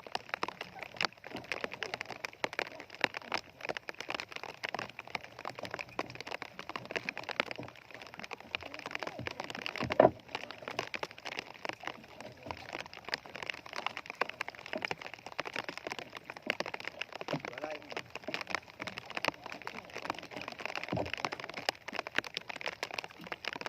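Steady rain falling, a dense crackle of drops, with one sharp knock about ten seconds in.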